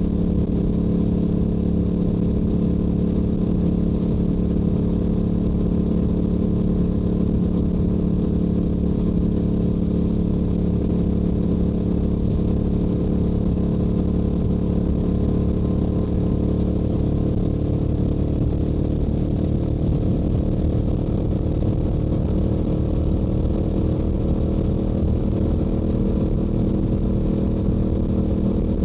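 Stock exhaust of a Yamaha YZF-R7's parallel-twin engine running steadily at highway cruising speed, its pitch creeping up slightly in the second half as the bike gains a little speed.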